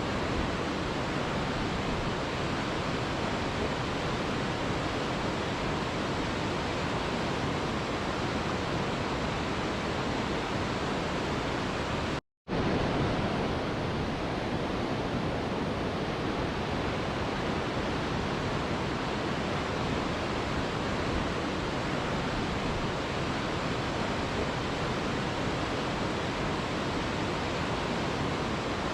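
Mountain river rushing steadily, an even wash of water noise, which cuts out to silence for a fraction of a second about twelve seconds in.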